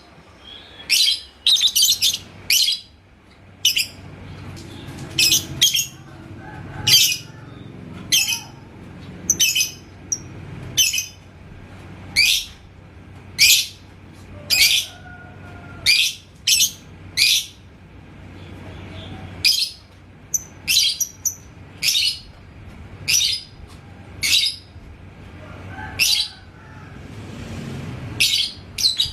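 Lovebird giving short, shrill chirps about one a second, often two or three in quick succession.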